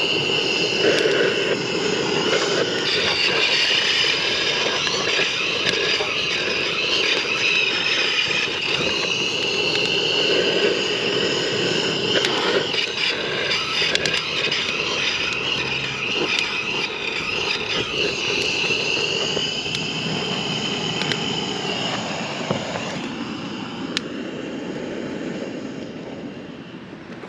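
Aircraft engine drone with a steady high whine, passing over and fading in the last few seconds.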